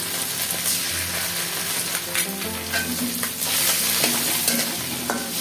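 Pieces of rohu fish head frying in mustard oil in a metal karahi, sizzling steadily, while a metal spatula stirs them and scrapes repeatedly against the pan.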